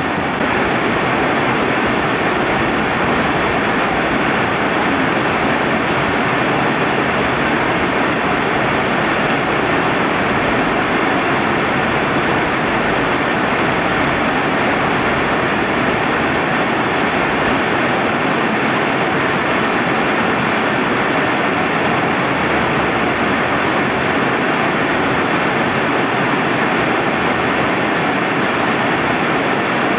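Steady rain falling by a flowing river: an even, unbroken rushing hiss.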